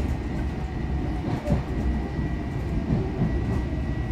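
Long Island Rail Road commuter train car rolling along the track, heard from inside: a steady low rumble with small irregular knocks from the wheels and car body.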